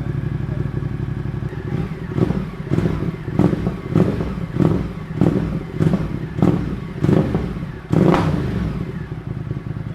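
Ducati motorcycle engine through an SC-Project SC1-R slip-on exhaust with its dB killer removed, idling and then given a quick run of about eight short throttle blips, followed by one longer rev that falls back to idle.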